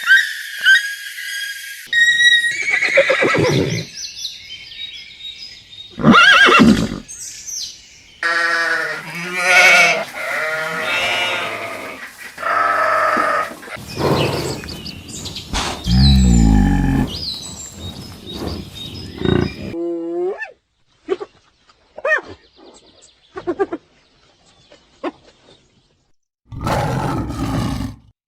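A quick succession of different animal calls, cut one after another: farm animals crying, bleating and calling in short loud bursts. The calls thin out to a few short, sparse sounds about two-thirds of the way through, then a loud call returns near the end.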